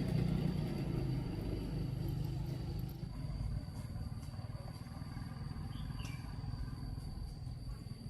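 A motor engine running, loudest at first and fading after about three seconds, over a steady thin high tone.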